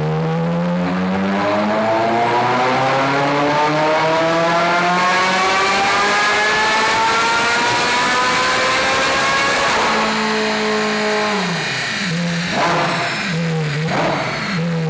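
Ferrari F430 Scuderia's flat-plane V8 through a cat-bypass and X-pipe muffler-bypass exhaust, making a full-throttle dyno pull: the pitch climbs steadily for about nine seconds. It then lifts off and drops back, and is blipped twice before the end.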